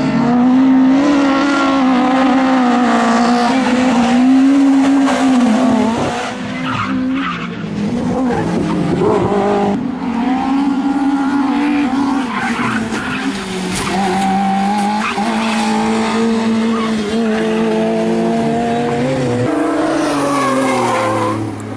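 Rally car engines at full throttle, revving up and falling back through gear changes, with tyres skidding on the stage. The sound cuts abruptly to another shot about halfway through and again near the end.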